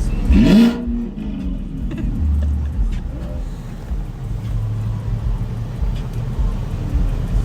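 Convertible Chevrolet Camaro's exhaust running with a low rumble, a short loud sound just after the start, a brief rise about two seconds in, and a steadier low drone a little later.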